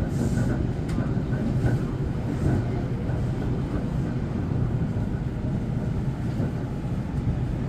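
Semboku 9300-series electric commuter train running between stations, heard from inside the car: a steady low rumble of wheels on the rails.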